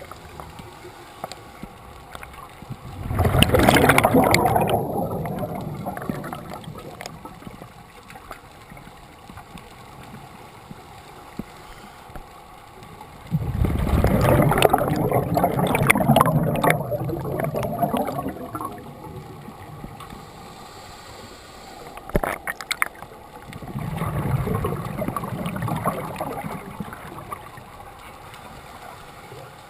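Scuba diver's exhaled bubbles streaming from the regulator, three long exhalations about ten seconds apart, with quieter stretches between them while the diver breathes in.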